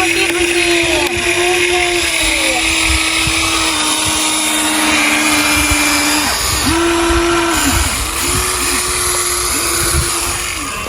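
Whine of a Huina RC excavator's small electric motors and gears: one steady run for the first several seconds, then a string of shorter runs that stop and start again, the pitch dipping as each run starts and stops.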